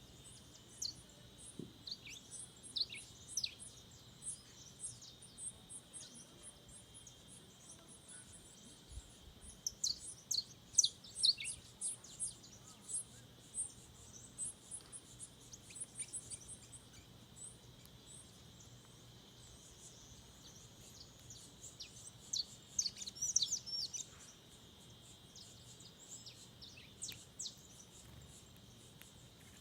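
Wild forest birds calling and singing: many short, high chirps and quick sweeping notes, with louder flurries about ten seconds in and again near the end, over a steady high-pitched hum.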